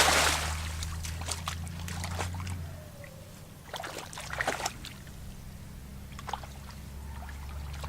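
Small splashes and trickling water from hands working in shallow water, over a steady low hum that drops out about a third of the way through.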